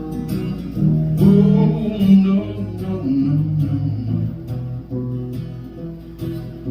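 Acoustic guitar playing a short instrumental passage of a country song, between sung lines.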